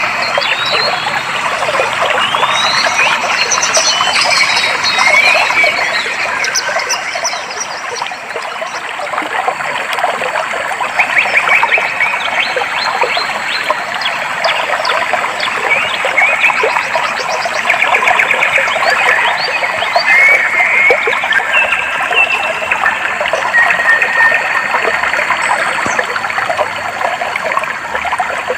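Clear water trickling and flowing steadily, with birds chirping and trilling over it: short rising calls in the first few seconds, then repeated trills later on.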